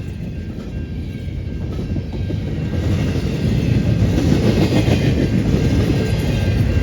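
Train rumbling past on the rails, wheels clattering, growing louder about halfway through as it comes closer.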